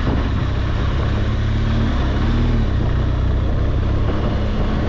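BMW R1200GSA's boxer-twin engine running steadily while riding, under a constant rush of wind and road noise.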